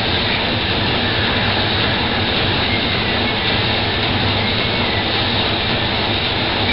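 Steady rushing background noise with a faint low hum, even in level throughout, with no distinct events.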